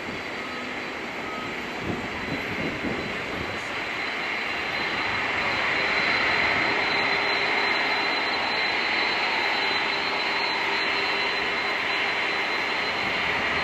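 Boeing 747-400 freighter's jet engines running as it taxis: a steady rush with a thin high whine over it, growing louder about four to six seconds in.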